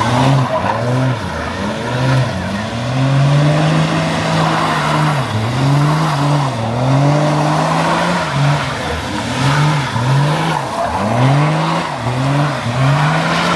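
A car engine revved hard over and over, its pitch climbing and dropping several times, with a longer held rev a few seconds in.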